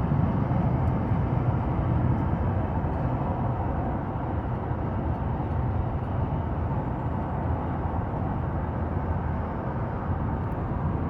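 Steady low rumble of vehicle noise with no distinct tones or events, easing off slightly in the middle.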